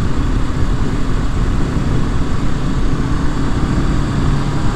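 Honda CB500F's parallel-twin engine running at a steady pace while riding, with steady wind rush on the microphone.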